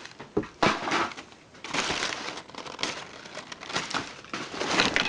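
Crumpled newspaper packing being handled and pulled from a box, rustling and crinkling in irregular bursts.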